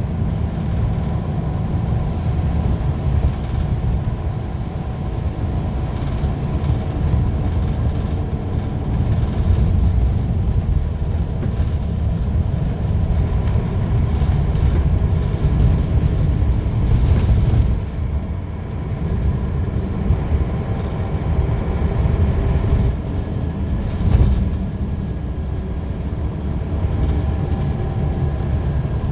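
Scania L94UB single-deck bus with a ZF automatic gearbox under way: a steady, heavy low engine and road rumble. It eases off for a moment about 18 seconds in, and there is a brief louder knock around 24 seconds.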